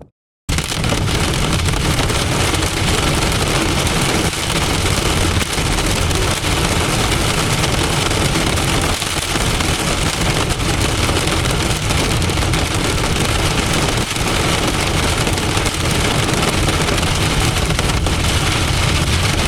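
Heavy wind-driven rain beating on a vehicle, a dense steady hiss with a low rumble underneath. It starts abruptly after a brief silent break at the very beginning.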